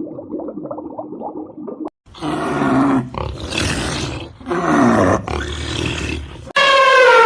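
A low rumbling sound for about the first two seconds, then, after a sudden cut, a big cat roaring: four loud calls, each falling in pitch. Near the end a different animal's call, a clear pitched cry sliding downward, begins.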